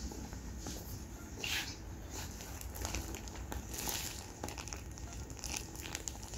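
Faint rustling and crinkling with a few light clicks, like packaged goods being handled, over a low steady hum.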